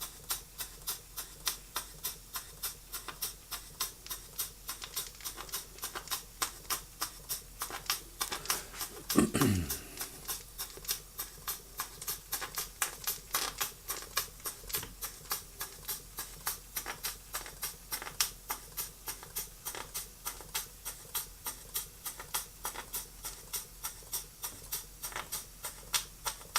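Model over-type steam engine running on steam, its exhaust giving a steady, rapid chuffing of about four beats a second. A brief falling tone sounds about nine seconds in.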